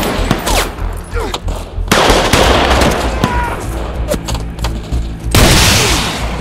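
Dense automatic gunfire, shots in quick bursts, over a film score with a steady low drone. It eases briefly about a second and a half in, then a loud sudden burst of fire breaks out about five and a half seconds in.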